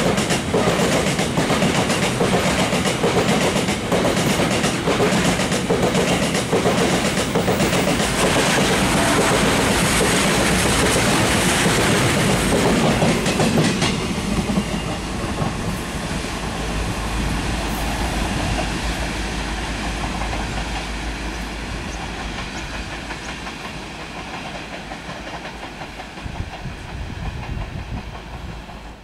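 Express train passing at speed, its wheels clattering over the rail joints in a loud, dense rush. About halfway through the clatter stops as the last coach goes by, leaving a low rumble that fades away as the train recedes.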